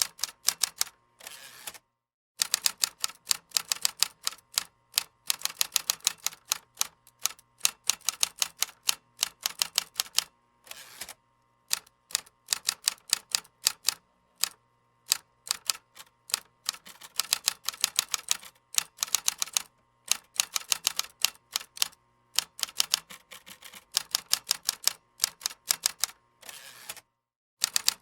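Computer keyboard typing: quick runs of key clicks, several a second, broken by short pauses every few seconds.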